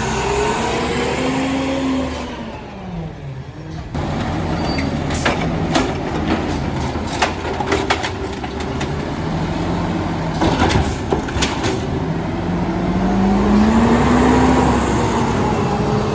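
Mack LR CNG garbage truck's engine revving up and back down twice, with a run of sharp knocks and clattering in the middle.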